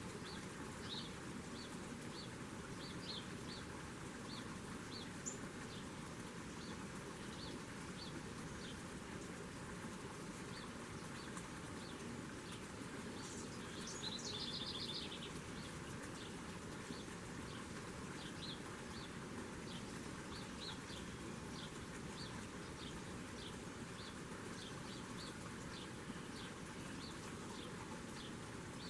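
Small birds at a feeder chirping, with short high chirps scattered throughout and a brief rapid trill about halfway through, over a steady background hiss.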